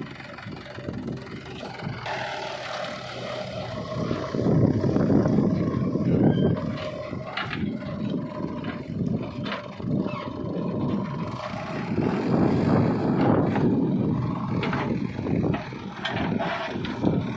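Diesel engine of a JCB 3DX backhoe loader working, its note swelling and easing as it loads, with a steady whine through the first half and a few short knocks.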